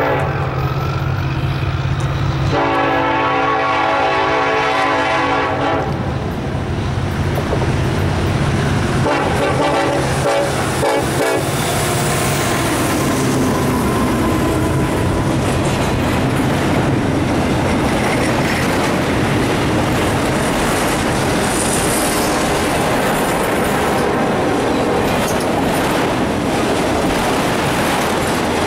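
Norfolk Southern diesel freight train passing close by: the lead EMD SD70ACe locomotive's air horn sounds a chord for about three seconds, a few seconds in, over the low drone of the diesel engines. After about twelve seconds the steady rumble and clatter of autorack and intermodal cars rolling past takes over.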